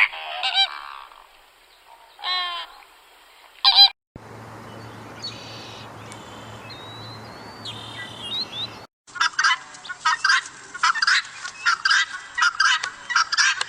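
Bird calls in three separate clips. First come several loud pitched calls. Then a steady hiss with a low hum and a few faint chirps. From about 9 s, a rapid, dense run of many short calls.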